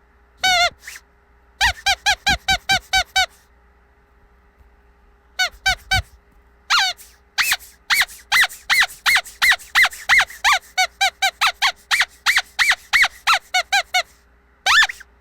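Squeaky dog toy being squeezed over and over, giving short high-pitched squeaks: one on its own, a quick run of about eight, a pause of a second or two, then a long fast series of squeaks at about three to four a second.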